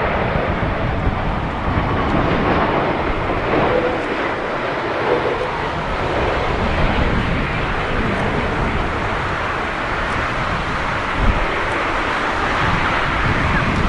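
Jet airliner engine noise mixed with strong, gusty wind rumbling on the microphone.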